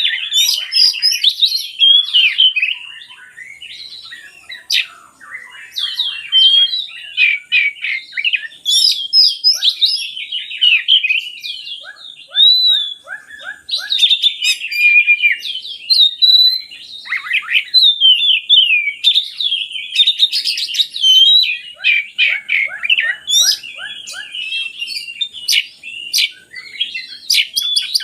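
Oriental magpie-robin (kacer) singing a long, varied song of whistled phrases, rapid trills and chattering notes with only brief breaks.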